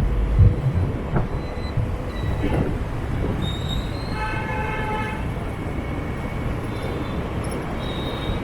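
Motorbike traffic running steadily, with a horn sounding once for about a second about halfway through and a thin high squeal that comes and goes.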